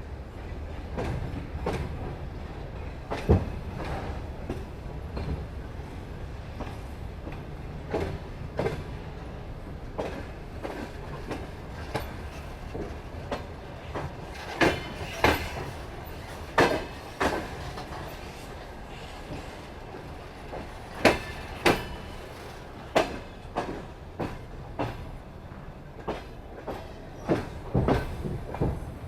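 Railway wheels running over rail joints: a steady low rumble broken by sharp knocks, often in quick pairs, the clickety-clack of a moving train.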